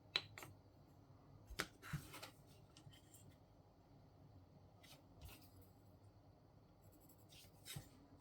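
Faint handling sounds at a work table: a few light clicks and taps, with a short scraping rustle about two seconds in, over a quiet room.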